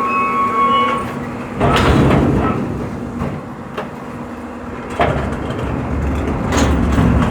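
Garbage truck running, with a high steady squeal that fades out in the first second. Two loud, sudden surges follow, about one and a half seconds in and again about five seconds in.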